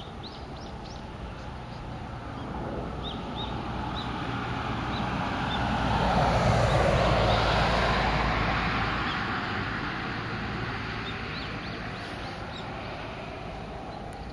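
A road vehicle passes, its noise swelling to a peak about halfway through and then fading away. Short, high bird chirps are heard before and after it.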